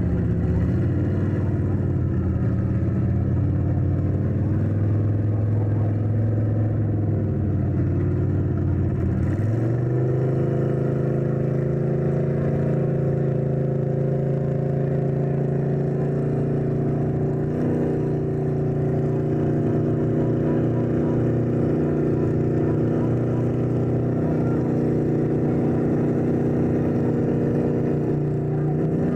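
Truck engines running hard under load in a tug of war pull; the revs climb sharply about nine seconds in and are held high and steady, with a brief waver in the middle and a drop right at the end.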